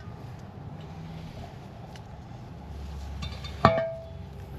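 One sharp metallic clink, with a short ring, about three and a half seconds in: a steel tool striking or being set against metal parts during the wheel bearing job. A low, steady hum underlies it.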